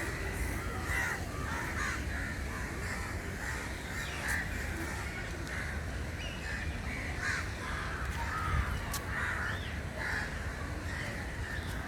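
Birds calling over and over, many short overlapping calls, over a steady low rumble.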